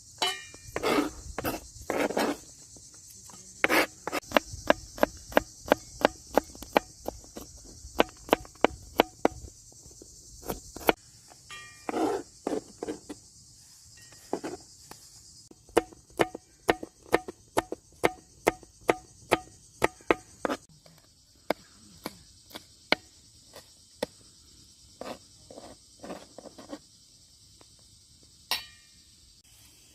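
Repeated sharp knocks, mostly in runs of about two to three a second, over a steady high chirring hiss.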